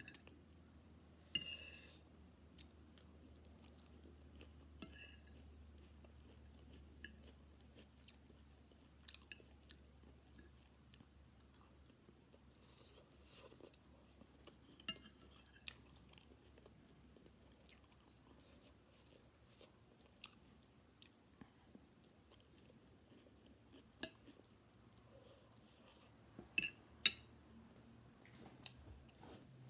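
Close-up chewing of a mouthful of chicken chow mein noodles, with soft wet mouth sounds. Now and then a metal fork clinks against the ceramic plate, and near the end a few sharper clinks come as the fork is set down on the plate.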